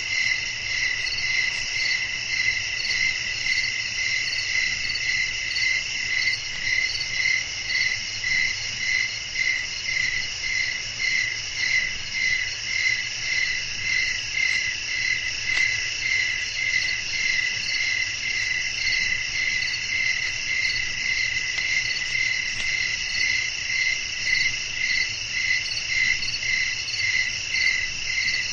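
Night chorus of crickets chirping: several steady trills at different pitches, one of them pulsing about twice a second.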